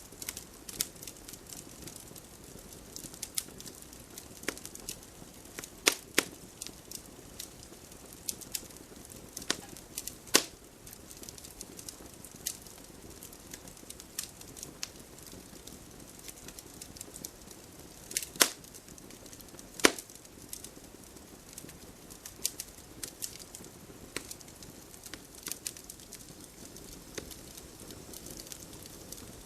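Wood fire crackling over a low steady hiss, with irregular sharp pops and snaps; four louder pops stand out.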